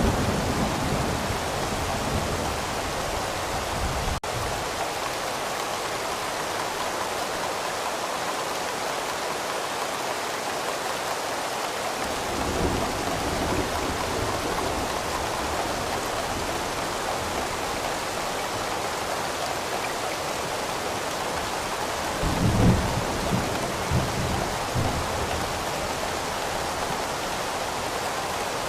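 Steady rain falling, with low rumbles of thunder: one near the start, one about twelve seconds in, and the loudest about twenty-two seconds in.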